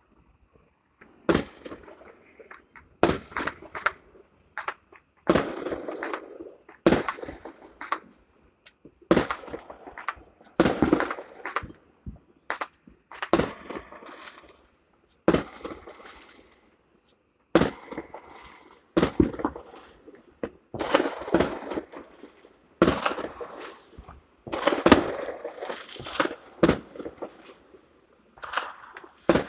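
Fireworks going off in a steady series: a sharp bang every second or two, each followed by a short crackle.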